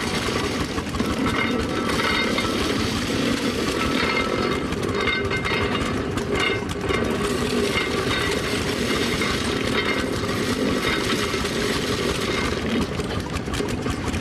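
Early-1900s grain-threshing machine running, a steady mechanical rattle that separates the grain from the husk.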